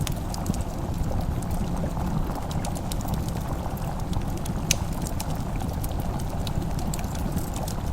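Wood fire crackling in a fireplace: scattered sharp pops and ticks over a steady low rumble, which may carry a simmering pot.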